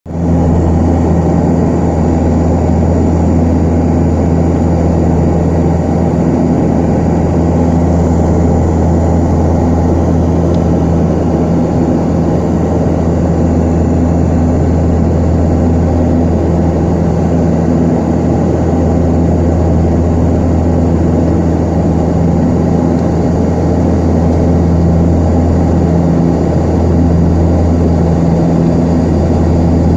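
Antonov An-24's twin Ivchenko AI-24 turboprop engines and propellers running during the landing approach: a loud, steady low drone with a few held tones.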